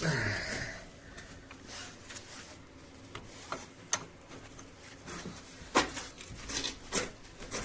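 Hand tools and metal parts clinking and knocking: a scatter of separate sharp clicks and taps, with no steady rhythm, the loudest a little after halfway.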